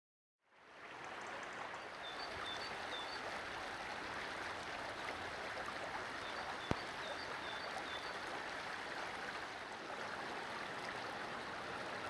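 Steady rush of a flowing stream, fading in about half a second in, with faint high bird chirps in two short groups. A single sharp click sounds about two-thirds of the way through.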